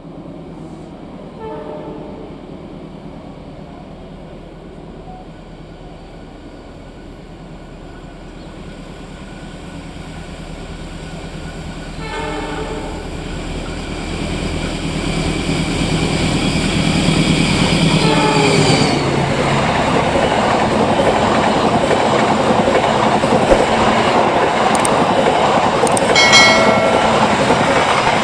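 A train approaching and passing, its horn sounding in several blasts: one near the start, one about midway and one as it draws level, where the horn's pitch bends. The sound grows steadily louder as the train nears, then the wheels clatter over the rails as the cars go by.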